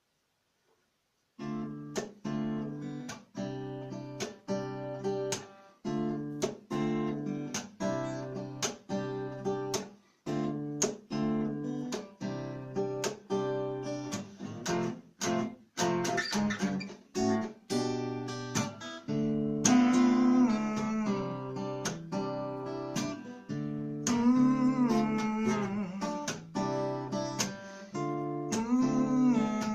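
Fender CD-60S acoustic guitar strummed in a steady chord rhythm, starting about a second and a half in: the instrumental intro of a song. From about 20 seconds on, a wavering melody line sits over the strumming.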